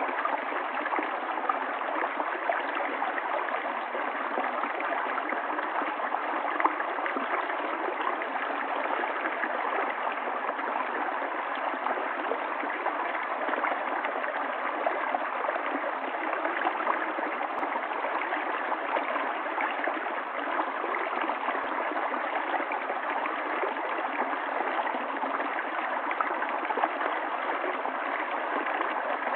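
Water of a stream running steadily, a continuous even rush with no breaks or changes.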